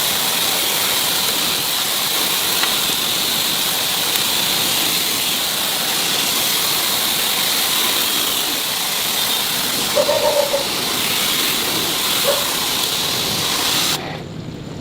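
Steady loud hiss of a pressurised jet of air or spray, stopping abruptly near the end, with a short squeak about ten seconds in.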